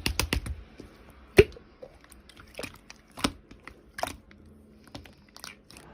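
Slime being pressed and squeezed, giving scattered sharp crackles and clicks, the loudest about a second and a half in. A short run of fast keyboard typing ends right at the start.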